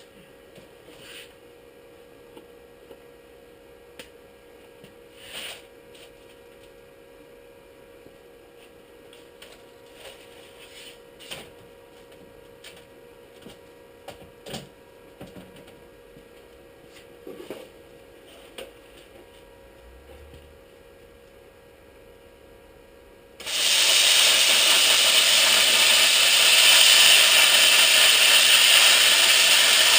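Faint scattered clicks and knocks of metal being handled in a shop. About three quarters of the way through, a loud, steady hiss of a shop tool starts suddenly.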